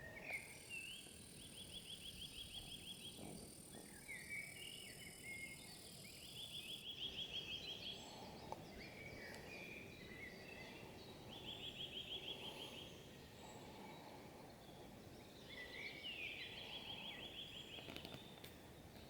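Songbirds singing in a forest. One bird repeats a short song of a few gliding notes ending in a rapid trill, about every five seconds, over a thin steady high tone for the first several seconds.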